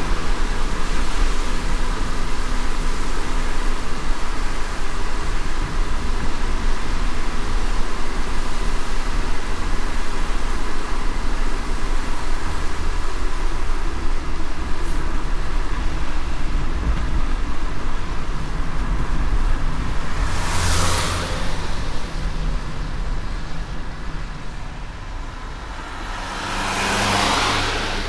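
Car driving in light rain: steady tyre and road noise over a low rumble. Twice near the end, a brief loud rushing swoosh rises and fades.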